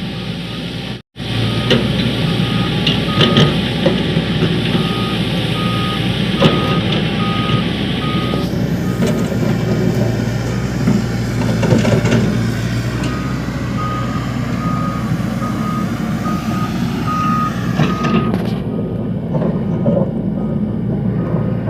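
Heavy diesel construction machinery running with a steady engine drone, while a warning alarm beeps at an even pace.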